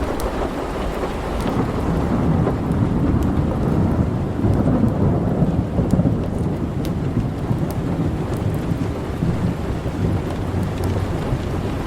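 Thunder rumbling low and long over steady rain, the rumble swelling from about two seconds in and staying heavy. A few faint sharp ticks sound over it.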